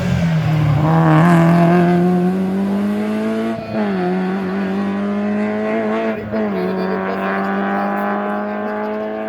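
Rally car engine accelerating hard through the gears, its pitch climbing and then dropping sharply at two upshifts, about a third and two-thirds of the way through.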